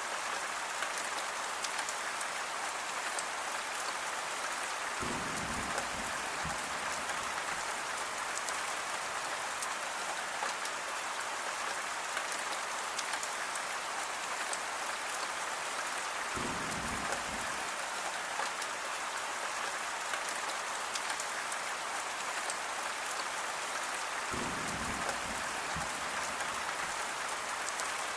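Steady, heavy rain falling, a dense even hiss of drops with fine pattering. A brief low rumble sounds under it three times.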